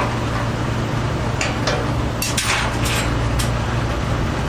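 An engine running steadily at idle, with a quick run of about half a dozen sharp metallic clanks and knocks in the middle.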